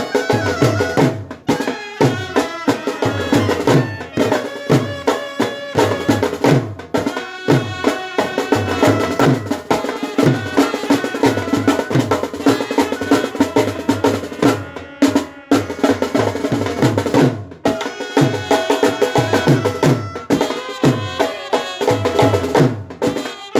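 Brass band music: wind instruments play a sustained melody over steady drum beats, about two strokes a second, with a few brief breaks.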